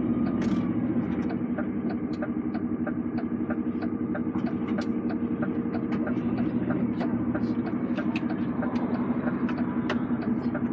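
Heavy lorry's diesel engine running steadily, heard from inside the cab, with a quick run of light ticks and rattles over the drone.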